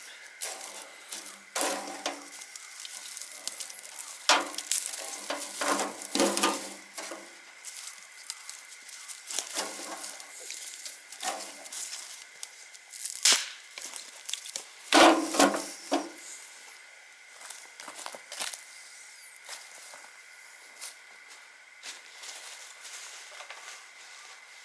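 Wood fire crackling, with irregular sharp snaps and pops, the loudest cluster a little past halfway, then quieter toward the end.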